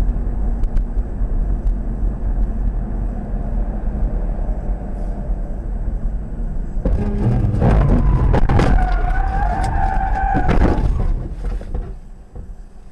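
Low road and engine rumble from a moving vehicle. From about seven seconds in it grows louder and noisier, with a held, slightly wavering high tone lasting about three seconds; the noise drops away near the end.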